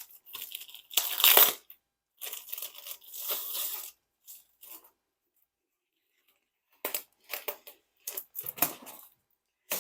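Packaging of a diamond-painting canvas being torn and crinkled open by hand. The loudest rip comes about a second in, then more rustling; after a pause of about two seconds come several short rustles near the end.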